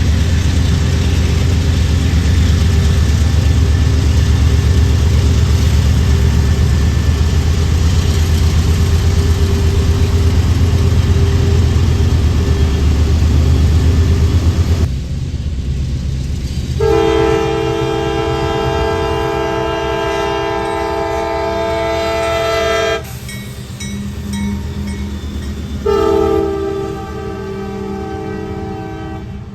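A loud, steady low engine rumble fills the first half. Then a diesel locomotive's multi-note air horn sounds a long blast of about six seconds, and a second blast begins a few seconds later, typical of a train whistling for a grade crossing.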